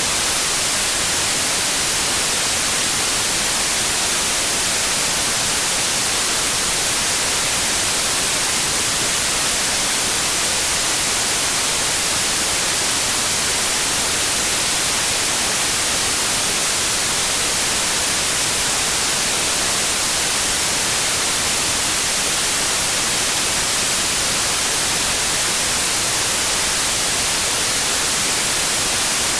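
Steady electronically generated white noise, an even hiss with its energy weighted toward the high frequencies and no change in level.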